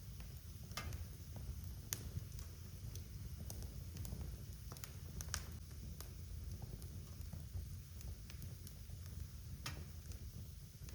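Wood fire burning in a fireplace: a steady low rumble of flames with scattered sharp crackles and pops, a few louder snaps about a second in, near two seconds, around five seconds and near the end.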